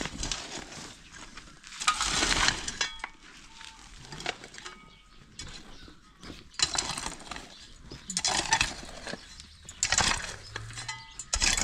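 Repeated metal scraping strokes, about six of them, with lighter scraping and clinks between, like a metal tool or utensil worked against a hard surface or pot.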